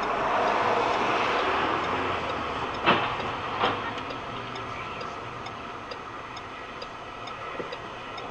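Steady vehicle running noise, fading slowly, with two sharp knocks about three seconds in and a faint regular ticking about twice a second.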